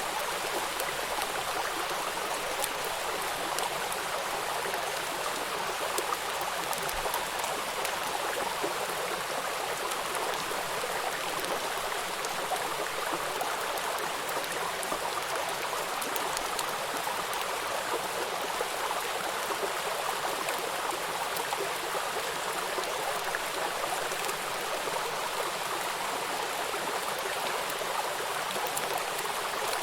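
Water of a small river waterfall rushing over rocks, a steady even rush.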